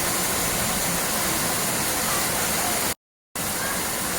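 Steady rushing water, such as a waterfall. It cuts out to total silence for about a third of a second about three seconds in, then resumes.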